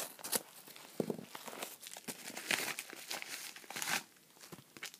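Crinkling and tearing as a mailing package is opened by hand: a run of quick rustling crackles that dies down near the end.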